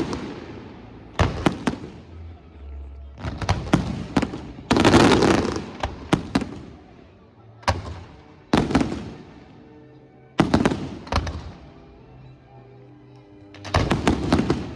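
Fireworks going off in volleys of sharp bangs and crackle. There is a bang about a second in, a dense cluster from about four to six seconds, single bangs near eight and eight and a half seconds, another cluster around ten to eleven seconds, and a final volley near the end.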